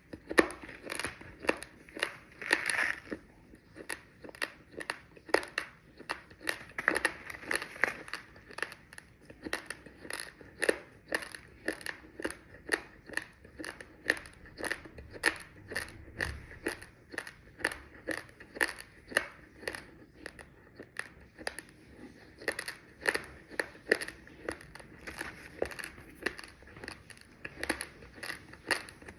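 Close-miked crunching as uncooked raw rice grains are bitten and chewed: a steady run of short, sharp crunches, about two to three a second.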